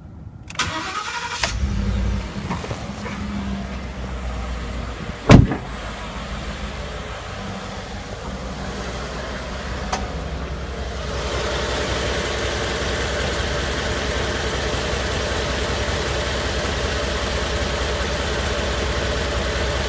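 2013 Ford F-150's 5.0 L Coyote V8 starting cold about a second in, then running at idle, settling into a steady idle that grows louder about eleven seconds in. A single loud sharp thump about five seconds in is the loudest sound.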